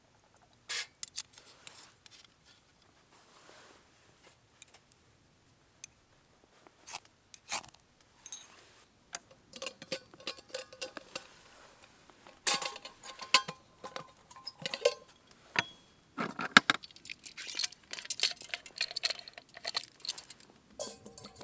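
Camp gear being handled: scattered clicks, knocks and light metallic clinks with some rustling, a few clinks ringing briefly about halfway through.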